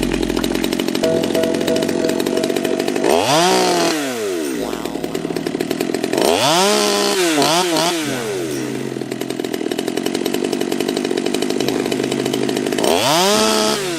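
Ported Stihl chainsaw running steadily, its engine revved up and back down three times, the pitch climbing and falling each time.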